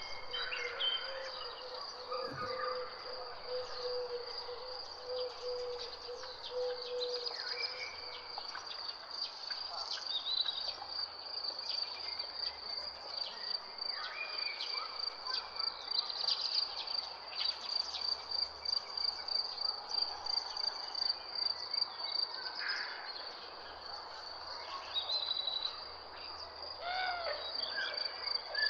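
Insects keep up a steady, high-pitched pulsing trill while birds call and chirp here and there. A low pulsed note runs through the first eight seconds or so.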